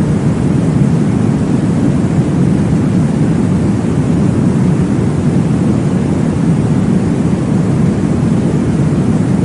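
Low, steady whooshing noise made for baby sleep, imitating the sound of blood flow inside the womb. It is deep and continuous, with no breaks and no change in level.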